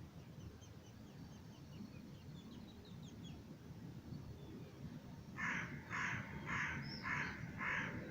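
A bird, a crow by its harsh calls, cawing in a run of about two caws a second, starting a little past halfway through. Small birds twitter faintly at the start, over a low steady rumble.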